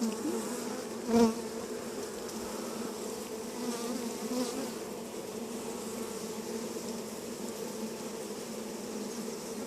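Honeybee colony in an open hive buzzing steadily: a dense, continuous hum from many bees, with one brief louder swell about a second in as a bee passes close. The colony is getting noisy while its frames are out.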